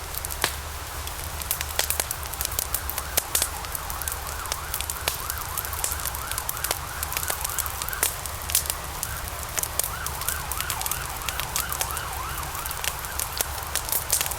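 Log fire crackling and popping with frequent sharp snaps over a steady low rumble and hiss. Through the middle a faint warbling whistle wavers up and down, coming and going.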